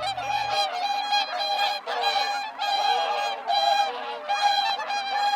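A mixed flock of whooper swans and greater white-fronted geese calling continuously, many overlapping honking calls at once.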